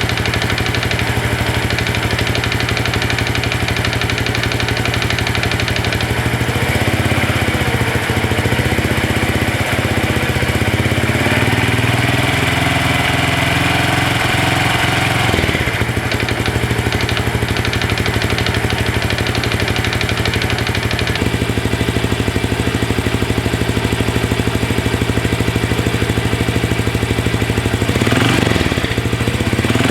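Honda CT125 Hunter Cub's air-cooled single-cylinder engine idling steadily.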